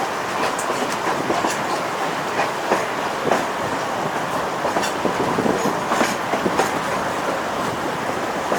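Narrow gauge passenger train rolling along the track, with a steady rumble and irregular sharp clacks of the wheels over the rail joints.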